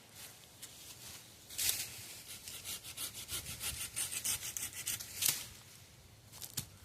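Hand saw cutting through a wooden pole, rapid back-and-forth rasping strokes, a few each second, that stop about five seconds in as the cut goes through.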